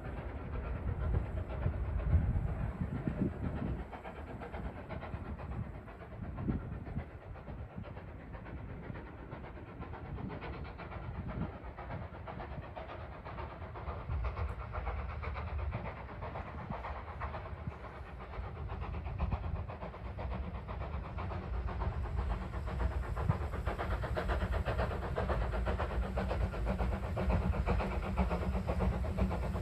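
Steam train running along the line: a steady rumble of the locomotive and carriages with wheels clicking over the rail joints and some steam hiss, growing louder in the last third.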